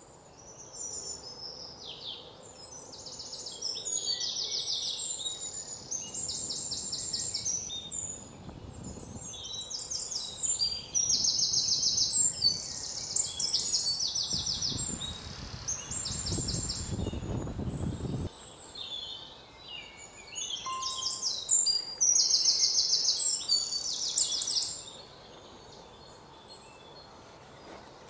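Birds singing in bursts of quick, high-pitched rattling trills and chirps, fading out near the end. Under them, a low rumble builds in the middle and cuts off suddenly.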